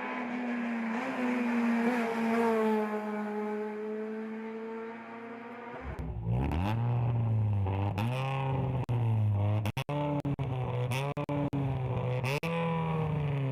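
Racing car engines on a hill climb. First an engine held at high revs, easing slightly. About six seconds in, a louder, deeper engine takes over, its revs climbing and dropping again and again through gear changes and off-throttle moments, with sharp crackles in the exhaust.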